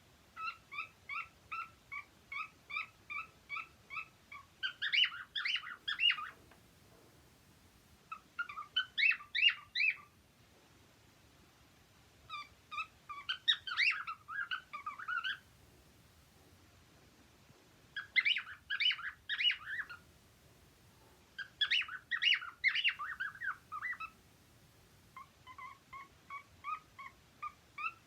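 Cockatiels singing: runs of evenly repeated chirping notes alternating with five louder bursts of rapid, warbling whistles.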